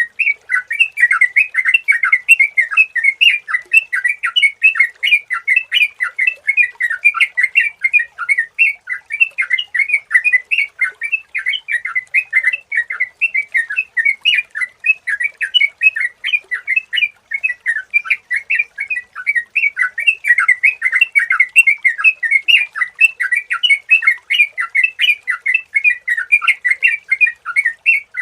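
Yellow-vented bulbul (trucukan) singing in a continuous rapid stream of short bubbly notes.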